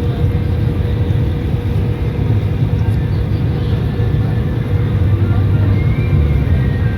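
Steady low rumble of a river passenger boat under way, with a constant hum running through it.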